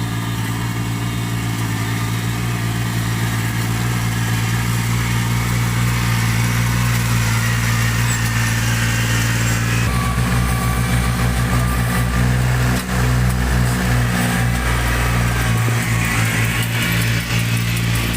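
A farm machine's engine running steadily. About ten seconds in, its note changes abruptly and becomes more uneven.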